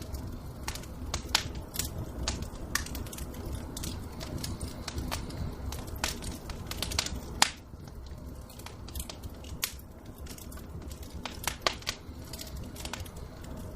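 Wood fire in a fireplace crackling, with irregular sharp pops over the low rumble of the flames; the loudest pop comes about halfway through.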